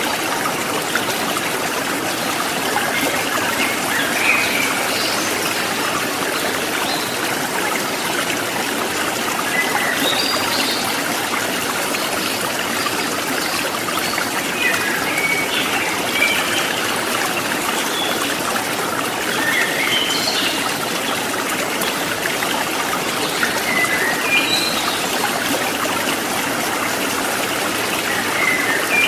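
Water babbling and trickling steadily over rocks, with scattered short high chirps here and there over it.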